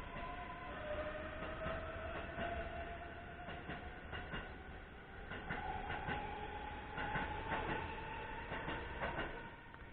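Keisei AE-series electric train running, with a motor whine that rises slowly in pitch over a steady rumble and repeated clicks of wheels over rail joints.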